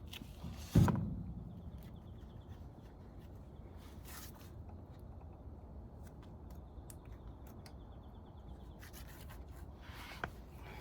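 A heavy thump, like a tool or metal part being set down hard on a workbench, about a second in, with a short ringing decay, followed by faint handling clicks and scraping.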